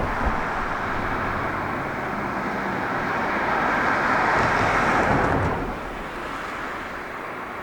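Rushing noise of a passing vehicle, building to its loudest about four to five seconds in and dropping away just before six seconds, leaving a quieter steady background.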